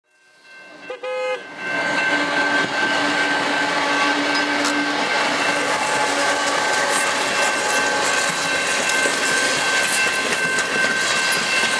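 A heavy Canadian Pacific coal train with GE AC4400CW diesel locomotives rolls past close by: a steady rumble of wheels on rail with scattered clicks and a steady high whine. The sound fades in from silence, with a brief pitched horn-like tone about a second in, and a lower steady tone for a few seconds after.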